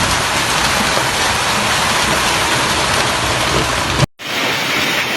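Heavy storm rain pouring down in a loud, steady hiss with a low rumble. About four seconds in the sound cuts out for a moment and resumes with less of the rumble.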